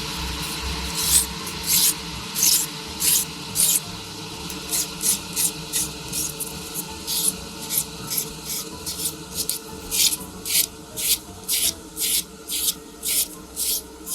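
Hand sanding or filing of a 3D-printed resin figure part: rhythmic rasping strokes, about two a second.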